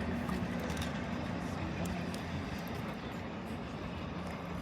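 Diesel locomotive engine idling, a steady low drone with a few faint clicks.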